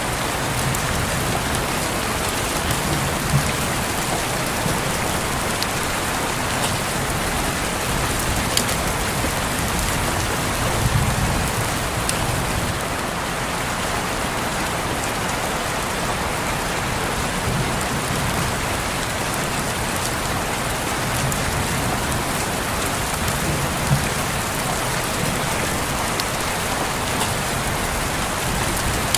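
Steady rain falling on a window: an even hiss, with a few sharper drop ticks standing out, the plainest one near the end.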